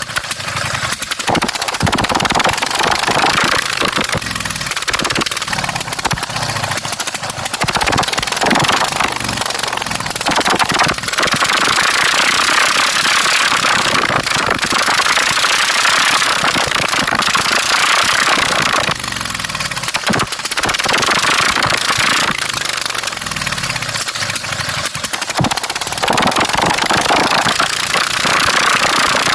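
Straight-piped V-twin engine of a racing lawn mower running loud, its engine speed rising and falling repeatedly, with a long stretch held at high revs in the middle.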